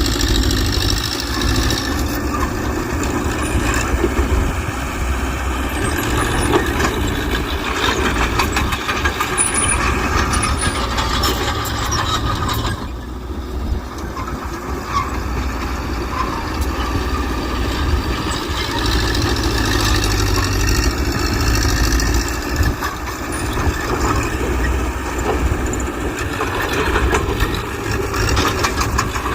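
Mitsubishi BD2G bulldozer's diesel engine running steadily while working, with frequent clicks and knocks over it. The level drops briefly about 13 seconds in.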